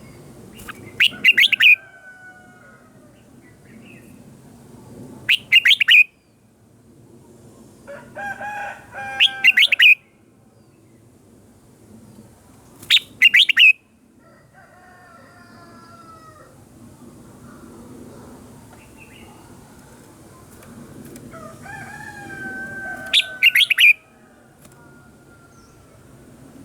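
Red-whiskered bulbul singing: five short, bright, loud phrases a few seconds apart. Fainter, lower whistles come between them.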